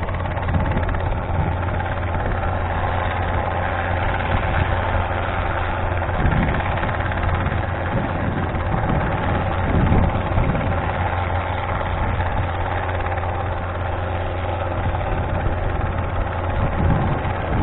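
Robinson R22 helicopter running steadily, a constant low engine-and-rotor hum with small swells in loudness.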